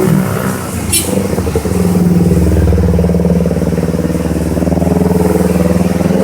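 Vehicle engine running steadily, getting louder about two seconds in, with a short click about a second in.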